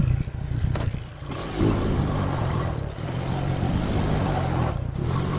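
Four-wheeler (ATV) engine running, a steady low drone that picks up in level about a second and a half in.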